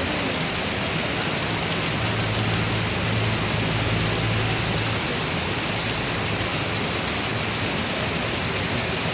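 Heavy rain falling steadily, an even hiss with no breaks. A low hum rises under it about two seconds in and fades a few seconds later.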